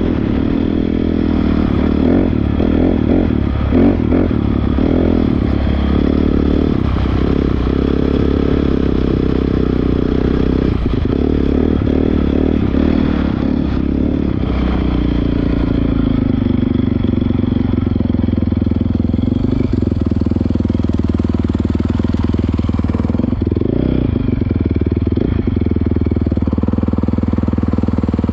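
Honda CRF450R single-cylinder four-stroke dirt bike engine running, the throttle changing unevenly through the first half, then settling to a steadier, lower note from about halfway, with one brief rise and fall in pitch near the end.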